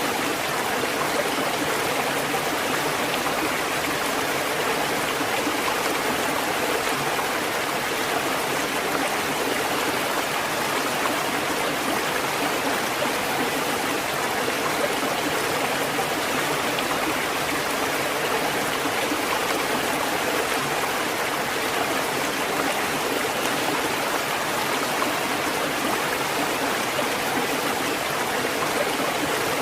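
Steady rushing water: an even, unbroken hiss with no rise and fall of waves.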